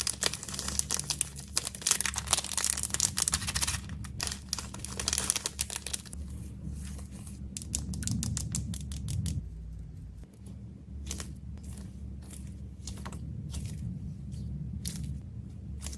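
Plastic packaging crinkling and crackling for the first several seconds, then a string of separate light clicks and taps as small plastic fidget toys are handled and packed.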